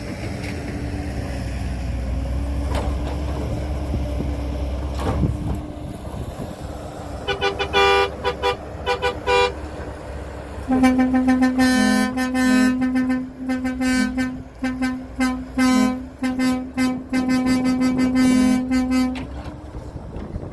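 A vehicle horn, most likely on a truck, honked in short toots. After a few seconds of the engine running, a handful of quick toots sound, then a long stuttering run of rapid honks lasts about eight seconds.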